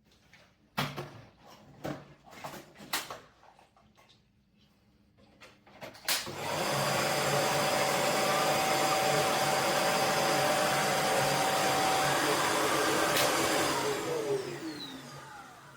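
A few light clicks and knocks, then a Shark PowerDetect Clean & Empty vacuum motor starts about six seconds in, runs steadily for about eight seconds, and winds down with a falling whine.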